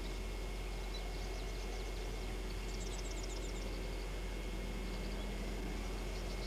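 Faint, high-pitched bird chirps in quick runs, about three seconds in and again near the end, over a steady hiss and a low hum.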